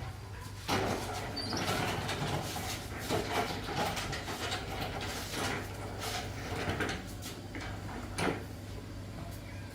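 Irregular knocks, clicks and scrapes of tools and metal parts being handled during repair work on a rice threshing machine, over a low steady hum. A sharper knock comes just under a second in, and another near the end.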